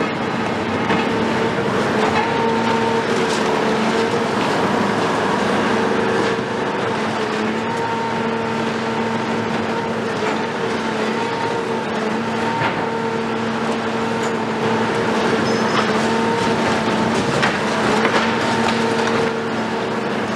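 Cat 374 excavator's Cat C15 diesel engine running with a steady hum, over a continuous noisy clatter of demolition work with scattered sharp knocks.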